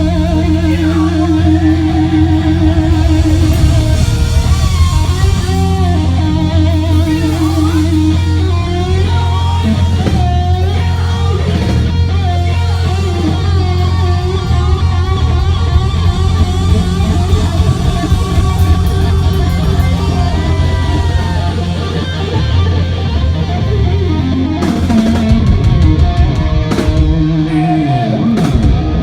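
Rock band playing live: electric guitar with bending and sliding notes over bass and drum kit.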